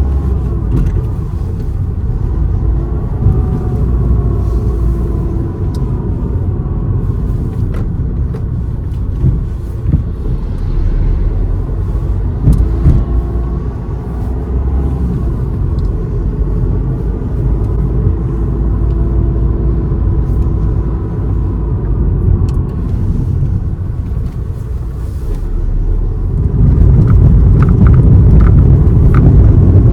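A car driving on a road: steady low rumble of engine and tyres, with the engine note wavering, growing louder near the end.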